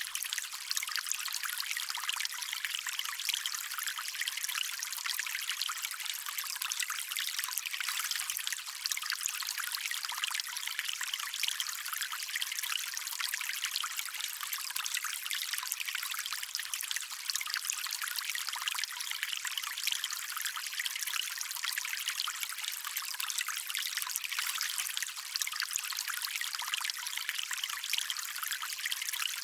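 Small stream of water trickling and running over stones, a steady bright splashing with no low rumble.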